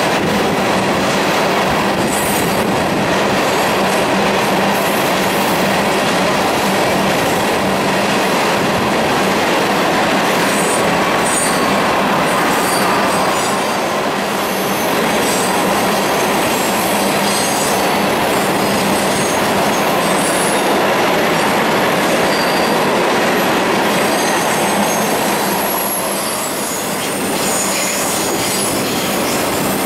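Freight train cars rolling past at track speed: a steady heavy rumble and rattle of steel wheels on rail, with short high squeaks now and then. A brief dip in level about halfway through, where the passing tank cars give way to double-stack intermodal cars.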